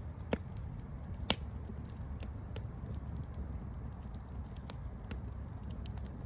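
Campfire burning with a low, steady rumble and scattered small crackles. Two sharp pops stand out in the first second and a half, the second the louder.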